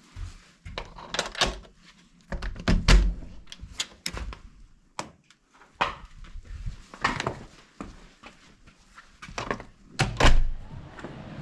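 An irregular run of knocks, clicks and thuds from things being handled in a small room, door-like, with the loudest thuds about three seconds in and again near the end.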